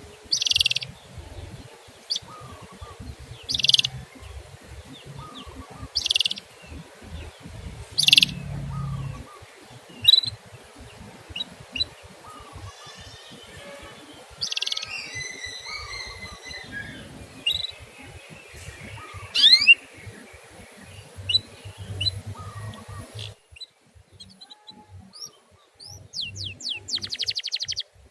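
Small songbirds chirping: short sharp calls about every two seconds, then a busier, varied song with a quick rising whistle. The sound breaks off about two thirds of the way through, and after a short gap a fast run of falling trill notes comes near the end.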